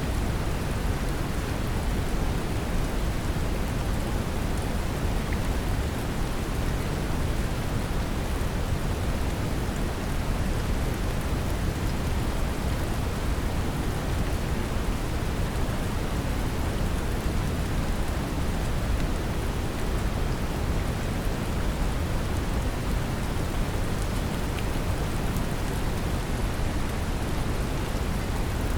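Synthetic brown noise mixed with steady rain: a deep, even rumble with rain falling on a surface, unchanging throughout.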